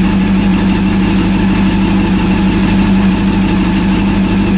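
Rebuilt Honda CB400 four-cylinder engine idling steadily at about 1,450–1,470 rpm while it warms up after being started.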